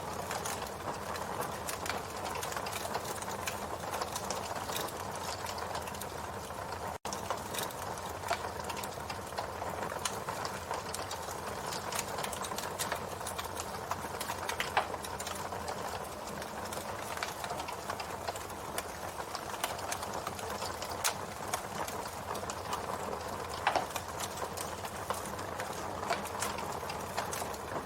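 Campfire burning: a steady hiss and crackle of burning wood, with frequent small pops and a few louder snaps. The sound cuts out for a split second about seven seconds in.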